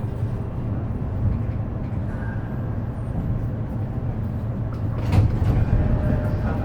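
Inside a JR East E233 series electric train at the end of its run: a steady low rumble of the train, with a short burst of hiss about five seconds in.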